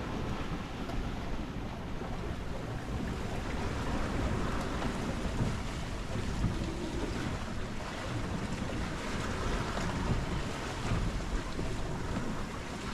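Sailboat under sail in rough, rolly seas: a steady rush of wind buffeting the microphone mixed with waves sloshing and breaking around the boat.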